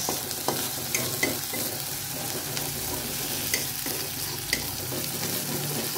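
Spice paste sizzling in hot oil in a wok while a metal spatula stirs it, with a few light clicks of metal on the pan. The paste is being sautéed until fragrant.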